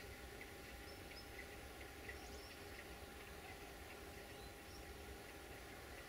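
Faint outdoor ambience: small birds chirping sparsely over a low, steady rumble.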